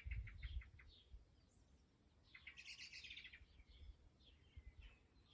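Faint birdsong from several small birds: a quick series of short high chirps, then a rapid trill about two and a half seconds in, followed by scattered short notes.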